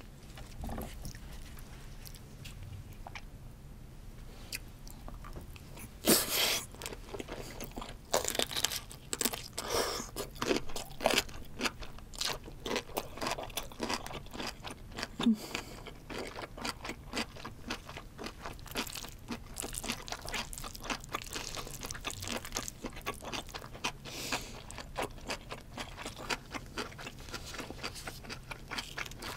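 A person chewing a mouthful of king crab fried rice close to the microphone. It is fairly quiet for the first few seconds, then from a sharp crunch about six seconds in comes a close, steady run of crunching and crackly chewing clicks.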